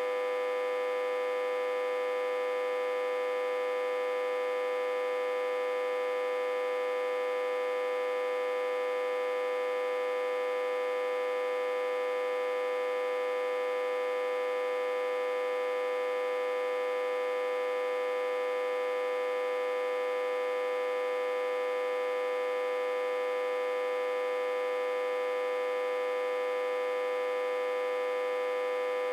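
Autotransformer humming steadily, reverse-connected to a step-down transformer and fed about 60–80 V. One unchanging, buzzy mid-pitched hum with many overtones.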